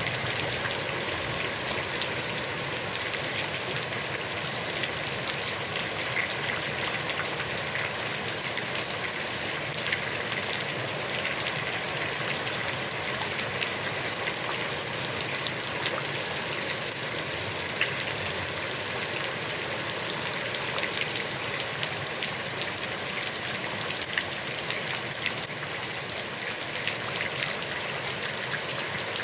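Heavy rain falling steadily onto a pond's water surface, a dense even hiss with individual drops pattering through it.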